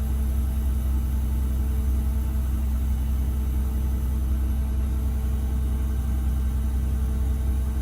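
Bus engine idling with a steady low drone while the air-bag leveling system fills the suspension bags.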